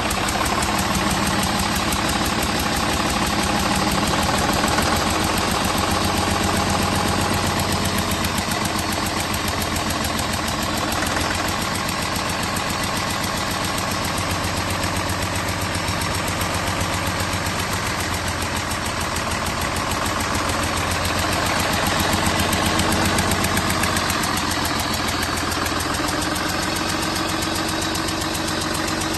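Deutz BF6L913 air-cooled, turbocharged inline-six diesel running steadily at idle, with an even diesel knock.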